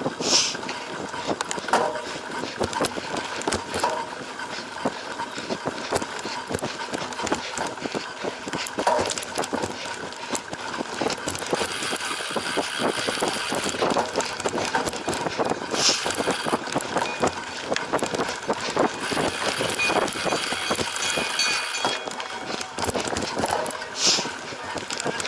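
Cyclocross bike being ridden hard over rough ground, with continuous rattling and knocking from the bike and tyre and wind noise.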